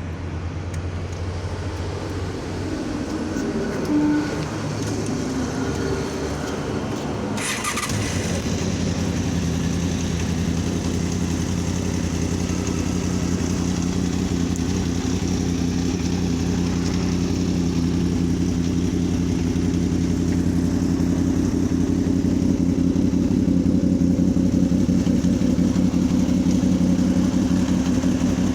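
Honda VFR800 motorcycle's V4 engine running steadily, with a brief louder moment about four seconds in and a change in its tone about eight seconds in.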